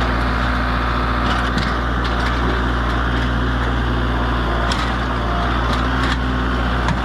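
Tractor engine running steadily under load, with sharp cracks and snaps every second or so as the mower's body breaks apart.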